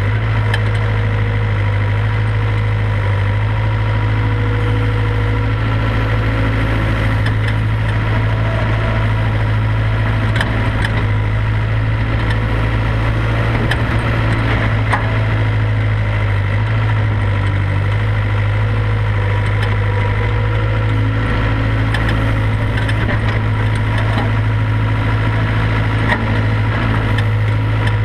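IHI IS75B excavator's diesel engine running steadily with a strong low hum and a steady higher whine above it, while it digs and loads clay. A few faint knocks come and go.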